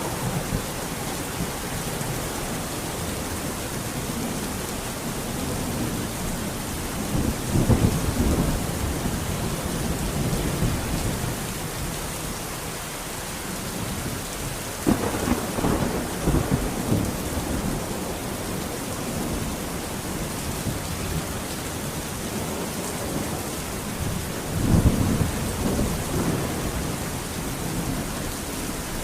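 Steady rain falling in a thunderstorm, with three rolls of thunder about eight, fifteen and twenty-five seconds in.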